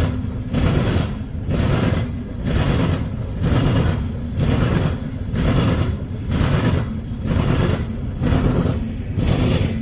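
Loaded coal hoppers of a freight train rolling past, the steel wheels clattering over the rail joints in a steady rhythm of about one burst a second over a constant low rumble.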